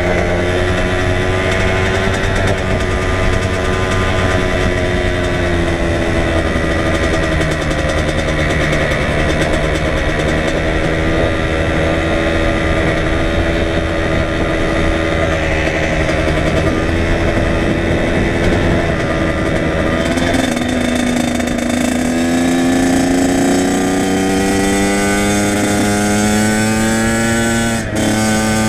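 Kawasaki KX100 two-stroke single-cylinder dirt bike engine running under way, holding a fairly steady pitch for most of the time. Near the end it rises steadily in pitch, cuts off for an instant as it shifts gear, and carries on.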